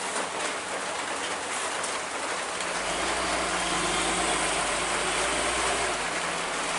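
Heavy truck engine running under load, its low hum growing stronger about three seconds in, over a steady hiss.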